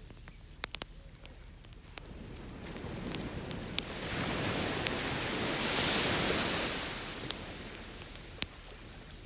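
One ocean wave swells, breaks and washes in, peaking about six seconds in and fading away, while a wood campfire crackles with sharp scattered pops.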